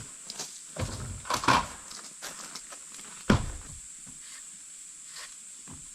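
A few knocks and thuds, the sharpest and loudest about three seconds in, with faint scattered clicks between them.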